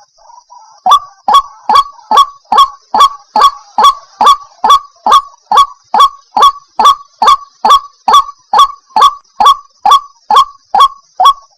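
White-breasted waterhen calling: a rapid, even series of short 'wak' notes, about two and a half a second, starting about a second in.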